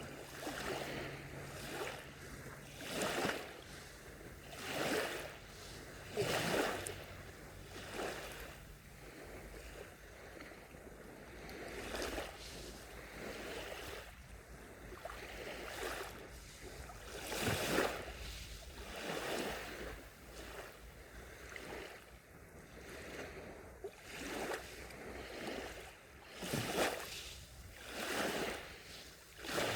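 Small sea waves breaking and washing up a sandy beach, each wash swelling and fading every second or two. A faint low hum lies under the first few seconds.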